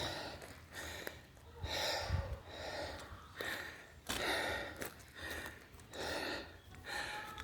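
A man breathing heavily, about one hard breath in or out each second, as he recovers just after a set of muscle-ups, bar dips and pull-ups.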